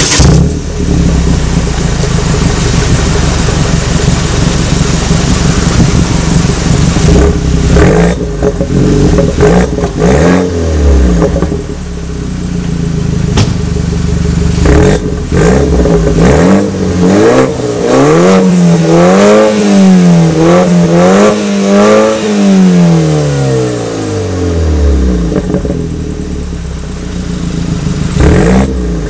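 BMW F30 320i four-cylinder engine through an Eisenmann aftermarket exhaust, running steadily at first and then revved repeatedly, the pitch climbing and falling several times before dropping back to idle near the end.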